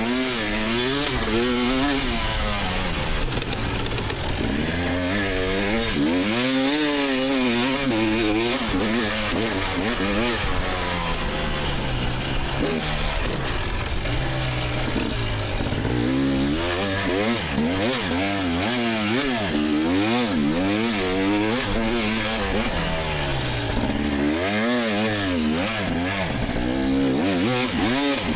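2024 GasGas EX300 two-stroke dirt bike engine revving up and dropping back again and again under a constantly changing throttle, with a couple of brief lulls as the throttle closes.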